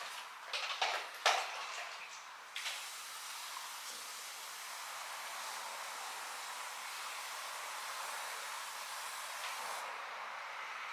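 A few quick knocks and clicks, then a steady hiss that starts about two and a half seconds in and holds.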